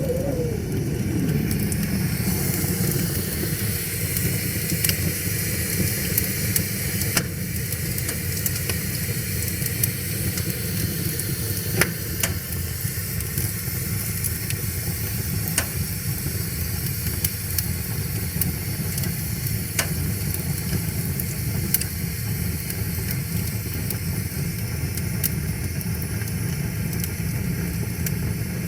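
Wood fire crackling, with occasional sharp pops every few seconds, over the steady low rush of a flowing river. A thin whistling tone slides down in pitch in the first second or so.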